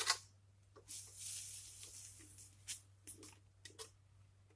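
Rustling and a few light clicks and knocks as a wire hanger is lifted on a broom handle and hooked over a tree branch: a burst of rustling about a second in, then scattered small knocks, over a steady low hum.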